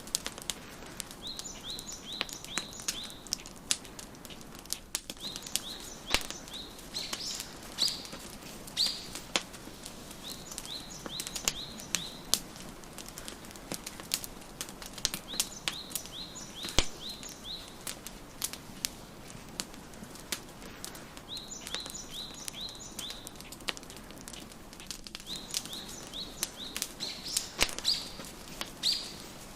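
Wood fire crackling in a fireplace, with frequent sharp pops over a soft steady hiss. A songbird sings short phrases of quick, rapidly repeated high chirps every few seconds.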